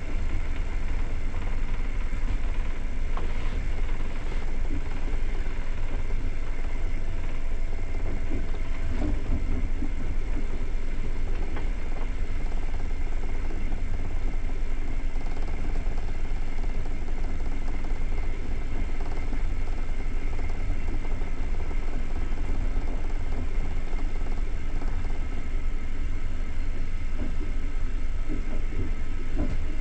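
Passenger train running along the line, heard from inside the coach: a steady low rumble of the wheels on the rails, with a few faint knocks here and there.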